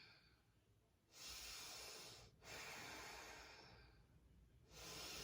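A woman's strong, deep yoga breaths, heard faintly: three long breaths in a row, each a second or two long.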